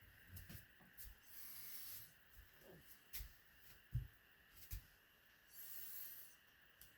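Near silence, with a few faint knocks and two short, soft hisses.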